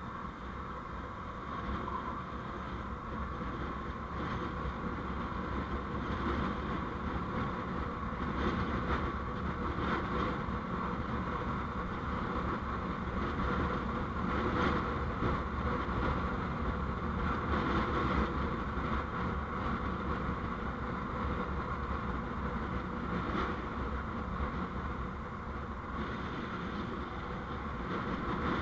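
Vehicle under way on the road: steady engine and road noise, growing a little louder over the first few seconds.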